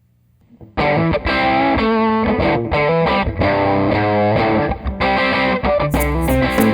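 Music led by a distorted electric guitar riff that starts about a second in. It sounds filtered and dull at first, then opens up to full range near the end as drums come in.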